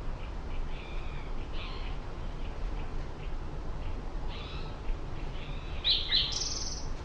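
Small birds chirping in short high calls, with two louder chirps and a brief buzzy note near the end, over a steady low rumble.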